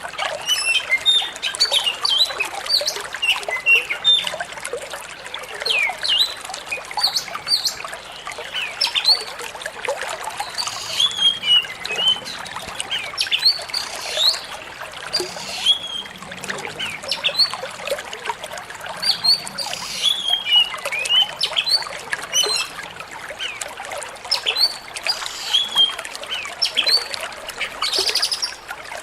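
Flowing, trickling water running steadily, with many short, quick bird chirps and calls scattered irregularly over it.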